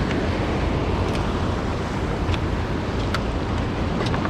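Steady rumble of wind on the microphone and water around a small fishing boat, with a few faint clicks.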